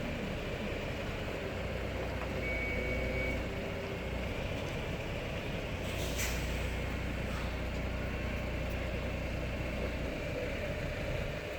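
Tram running with a steady low rumble, and a short sharp hiss about six seconds in.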